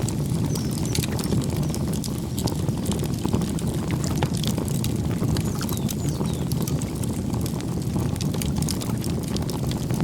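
Wood campfire crackling, with many sharp pops over a low steady rumble of the flames. Brief high bird chirps come through near the start and again around four seconds in.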